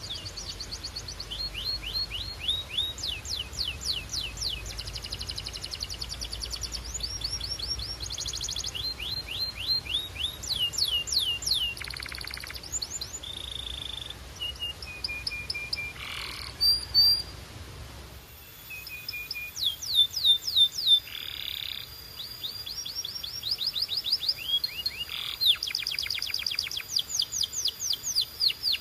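Domestic canary singing: a long song of fast trills made of rapidly repeated falling whistled notes, switching from one trill to the next, with a few short held notes between. A faint low hum lies under the first two-thirds and stops abruptly.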